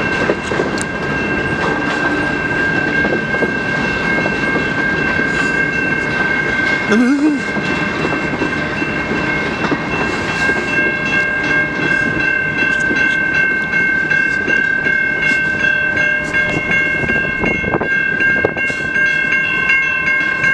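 Freight train rolling past at a grade crossing: a steady rumble and clatter of wheels on rail, with a high-pitched ringing tone held over it throughout.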